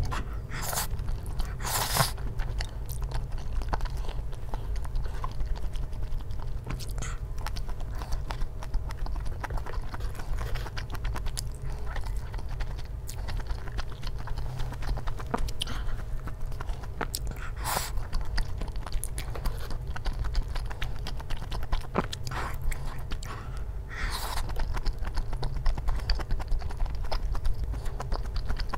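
Close-miked chewing and biting of tteokbokki, chewy rice cakes in spicy sauce with melted cheese, with many short sharp mouth clicks throughout.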